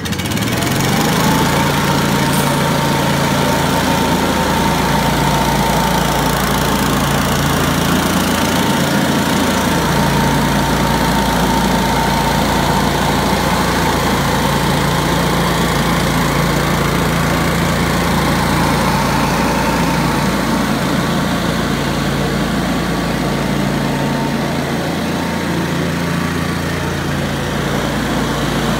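Billy Goat F601S walk-behind blower's 170 cc, 6 hp Robin engine running after a pull-start. It picks up speed about a second in, then runs steadily with a high whine over the rush of air from the outlet.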